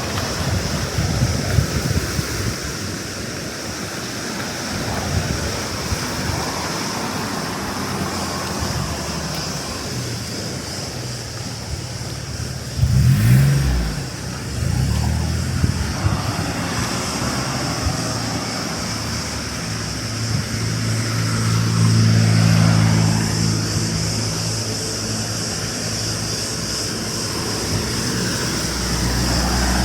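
Cicadas buzzing as a steady, even high drone, with a motor vehicle passing. There is a loud low surge about halfway through, and a steadier engine hum that swells and fades later on.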